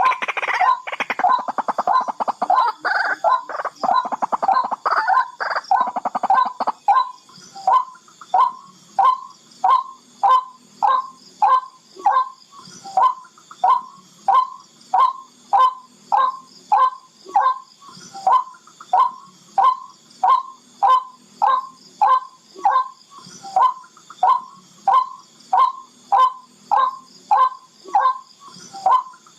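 Barred rail calling: a dense, rapid run of harsh notes for the first seven seconds or so, then an even series of short calls at about two a second.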